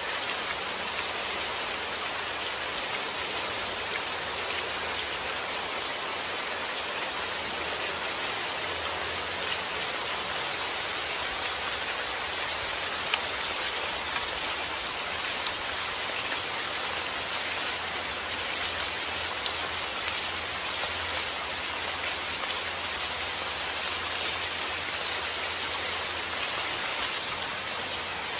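Steady rain falling on a surface, a constant hiss with many small drop patters.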